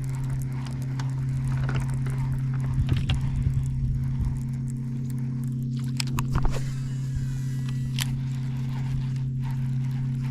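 Electric trolling motor running with a steady, even hum, switched on just before. A few light clicks and scrapes sound over it.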